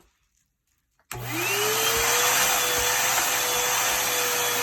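Hoover vacuum cleaner switched on about a second in, its motor whine rising as it spins up to speed, then running steadily.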